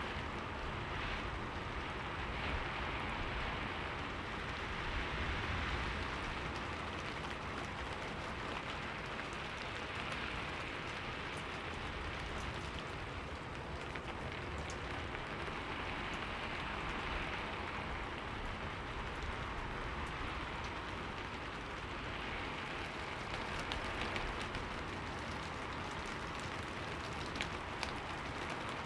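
Steady rain falling and pattering on a window, an even hiss with scattered drop ticks that swells and eases slowly.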